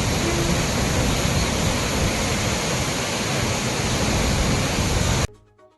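Heavy water rushing through open dam spillway gates: a loud, steady, even roar of falling water. It cuts off suddenly near the end, giving way to faint music.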